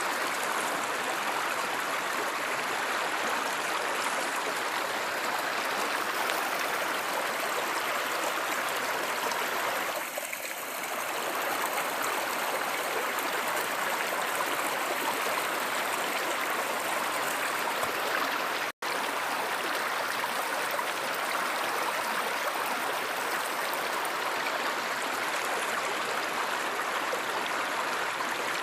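A river or stream flowing steadily, as an even rushing and babbling of water. Near two-thirds of the way through, it cuts out for an instant.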